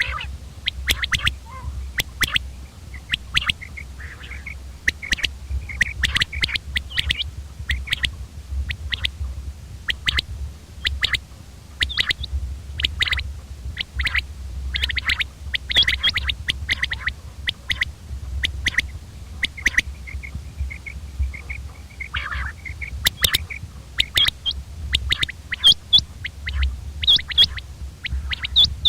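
Common quail calling: short, sharp notes repeated in quick groups again and again, over a steady low hum.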